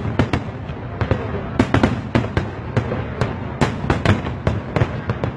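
Fireworks going off in a rapid, irregular string of sharp bangs, several a second, over a continuous low rumble of bursts.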